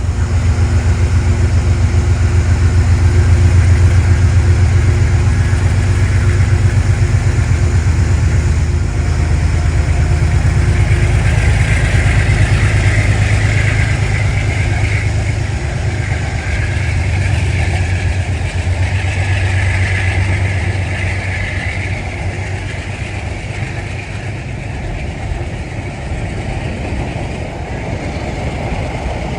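Metro-North M7 electric multiple-unit commuter train, 12 cars, running past: a loud, steady low rumble with fast, even pulsing and a rushing sound higher up in the middle. It fades away over the last several seconds.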